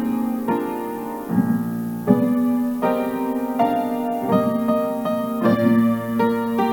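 Piano playing sustained chords, a new chord or note struck every half second to a second.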